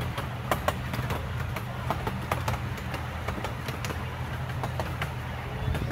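Amusement-park ride train running on its track: a steady low rumble with irregular sharp clacks of the wheels over rail joints.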